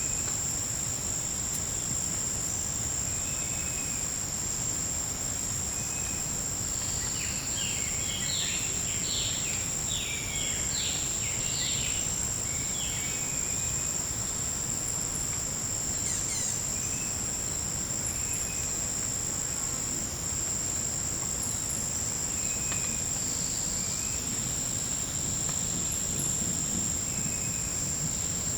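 Forest insect chorus: a steady, high-pitched drone that holds on two pitches, unbroken throughout. About eight seconds in, a bird gives a quick run of short rising notes lasting some four seconds, and single brief chirps come and go now and then.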